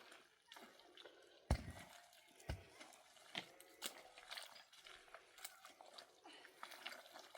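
Scattered sharp clicks and knocks, with two heavier thumps about one and a half and two and a half seconds in.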